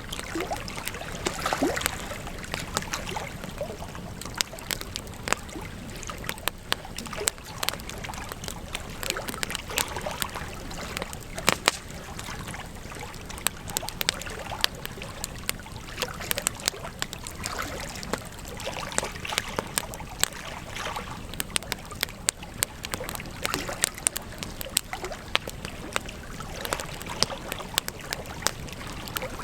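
Campfire burning, crackling and popping: irregular sharp pops scattered over a steady hiss.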